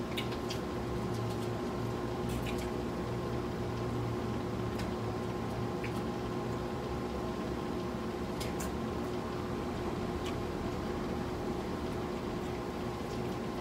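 Close-up chewing and wet mouth sounds of people eating crispy fried chicken with their hands, with scattered short crunchy clicks, over the steady hum of a room air conditioner.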